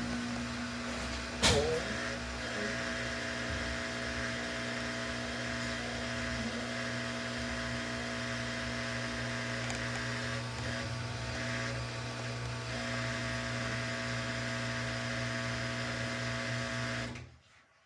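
Samsung washing machine running with a steady motor hum as the drum turns, a sharp click about one and a half seconds in. The motor cuts off suddenly near the end as the drum pauses in the wash cycle.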